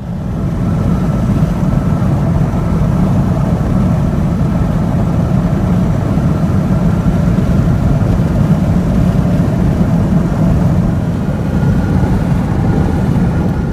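Loud, steady low rushing noise of a car driving at highway speed: road and wind noise with the engine under it.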